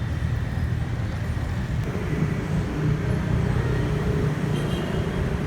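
A car engine running with a steady low rumble amid street traffic, a little louder from about two seconds in.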